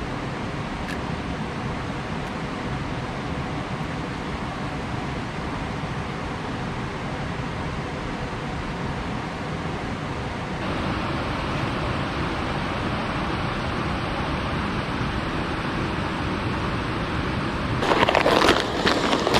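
Steady rushing noise that grows a little louder and brighter about halfway through, with a burst of clattering knocks near the end.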